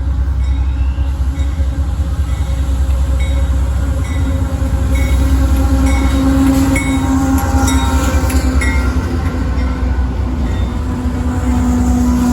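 Train passing close by: a heavy low rumble throughout, with sharp clacks of wheels over rail joints through the middle.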